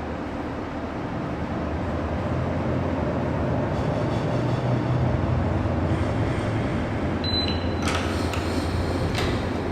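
Steady low engine rumble heard from inside a moving bus. A brief high tone sounds about seven seconds in, followed by a few rattles and knocks near the end.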